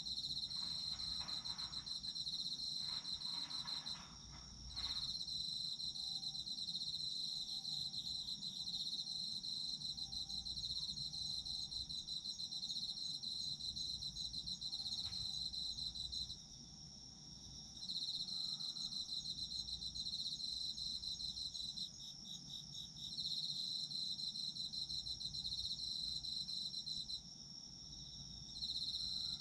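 Autumn crickets trilling continuously in a high-pitched chorus. The loudest singer breaks off briefly about four times while the others carry on.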